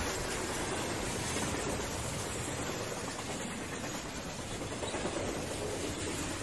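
Steady running noise of a train moving along the track, heard from the locomotive cab: an even hiss and rumble with no distinct knocks or tones.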